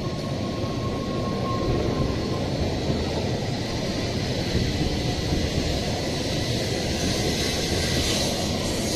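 N700A Shinkansen train departing and gathering speed alongside the platform: a steady rush of wheel and air noise that grows a little louder, with more hiss near the end.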